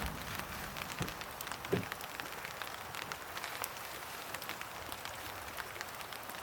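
Light rain pattering in many small drops, with two soft knocks about a second in and again just before two seconds.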